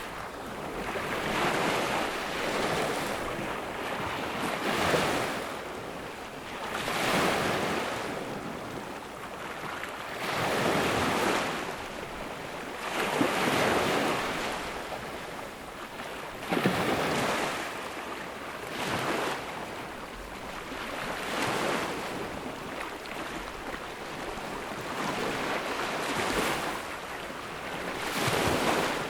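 Small ocean waves breaking on a sandy beach, one wash every two to three seconds, each swelling and fading.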